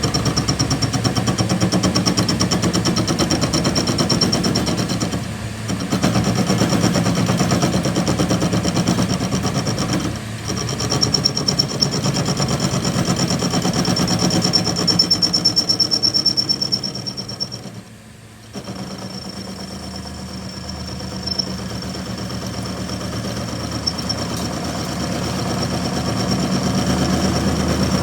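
Powered machine running steadily with a low hum and a high whine. It cuts out briefly about 5 and 10 seconds in, and drops away for about a second around two-thirds of the way through before running on more quietly.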